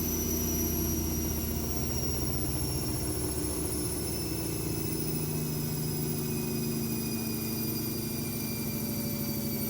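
AEG Lavamat W 1450 washing machine's drum motor spinning down, its whine falling slowly and steadily in pitch under a low rumble as the spin slows.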